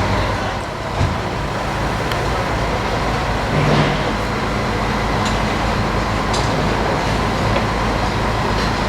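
MAN truck's diesel engine running steadily under a wash of mechanical noise, with a single knock about a second in.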